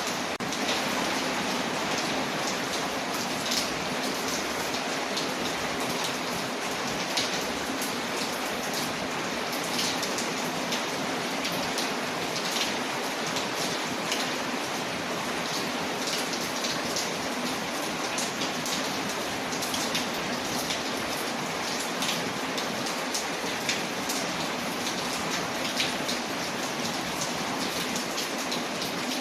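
Steady rain on a window, layered with a crackling fire that gives scattered sharp pops and clicks over the even hiss of the rain.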